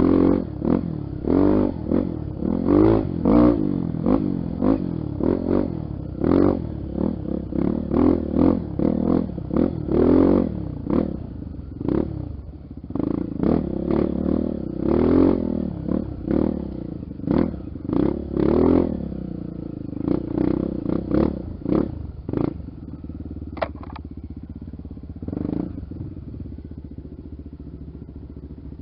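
Honda XR 250 Tornado single-cylinder four-stroke trail bike engine revving in repeated short throttle bursts, with knocks and clatter among them; after about 22 seconds it settles to a lower, steadier run.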